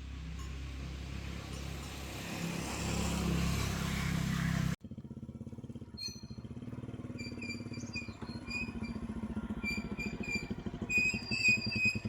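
A small engine running. The sound cuts off abruptly about five seconds in, and after that comes a fast low pulsing engine note with short high chirps over it.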